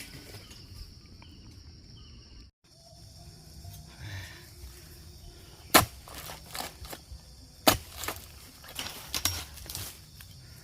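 Sharp chopping strikes of a palm harvesting blade cutting into oil palm fronds and fruit-bunch stalks: two loud blows about two seconds apart, then a run of smaller knocks. A steady high insect drone runs underneath.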